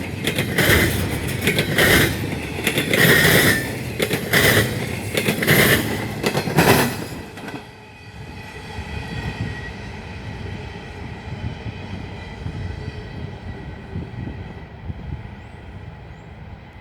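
Intermodal freight train cars rolling past close by, wheels clattering over the rail joints in a regular beat about once a second. About seven seconds in the last car goes by and the sound drops to a fainter rumble of the train moving away.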